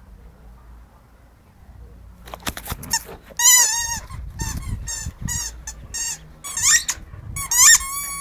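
Squeaky dog toy being chewed by a Boerboel: after about two seconds of quiet it squeaks over and over in quick, wavering bursts, with low thudding underneath.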